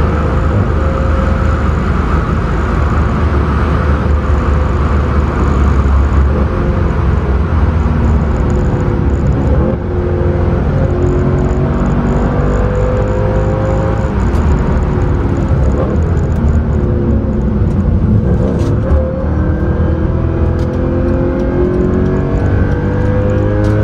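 Engine and road noise heard from inside the cabin of a 2013 Mercedes C63 AMG, whose engine is the 6.2-litre naturally aspirated V8. The engine is under load at speed, its revs climbing and falling again and again as the car is driven hard, over a heavy rumble of tyres and road.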